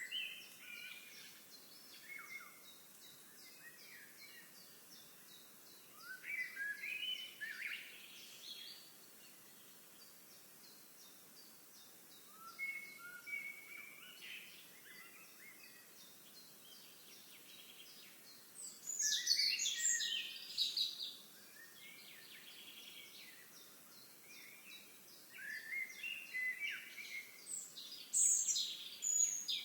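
Songbirds singing in short bursts of varied chirping phrases every several seconds, the loudest two near the middle and near the end, over a faint, steady, fast high ticking.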